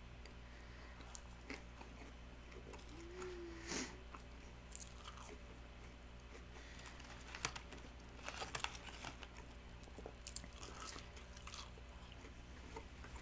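A person chewing and biting fast food close to the microphone: wet chewing with scattered crunches and mouth clicks, and a brief low hum about three seconds in.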